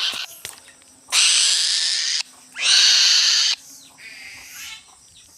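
Bird of prey giving two harsh, hissing screeches of about a second each, the second starting just after the first ends.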